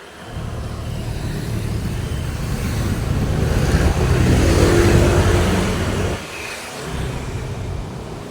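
Road traffic: a motor vehicle drives past close by, its engine and tyre noise building for several seconds and falling away sharply about six seconds in, with further traffic following.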